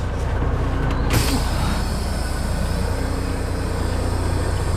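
Semi-truck diesel engine running steadily, with a sudden hiss of air about a second in, typical of the air brakes being released as the truck moves off.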